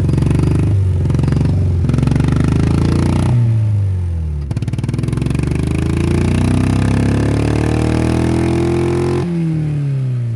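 Honda Civic four-cylinder engine running and being revved by hand. After a few short blips it climbs slowly in pitch for several seconds, then drops back as the throttle is let go near the end. The engine runs weakly, which the owner puts at about 25 horsepower, even though it has spark, fuel and compression.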